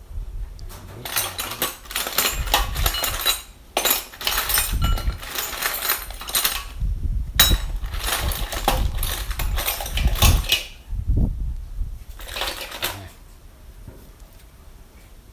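Repeated rough scraping strokes, each one to three seconds long with short pauses between them, then one more short stroke near the end.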